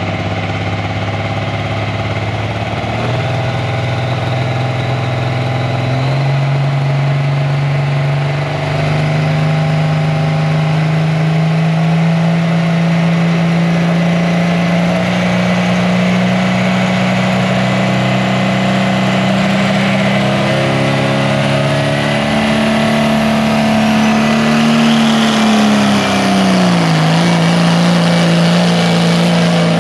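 Pulling tractor's engine running hard under load. Its pitch climbs in steps over the first ten seconds and holds high, then dips sharply about 26 seconds in and recovers.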